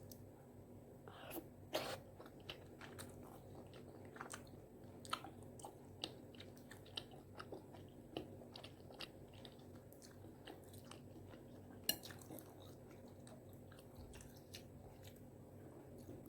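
Close-miked chewing of spicy tteokbokki rice cakes: scattered wet mouth clicks and smacks, with a sharper bite just under two seconds in and another near twelve seconds.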